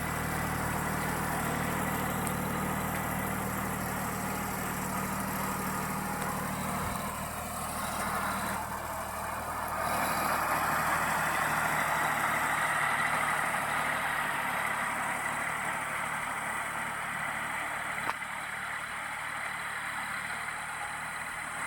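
Mini tractor engine running steadily, driving a pesticide spraying pump. About eight to ten seconds in, the low engine hum drops back and a louder, steady hiss takes over.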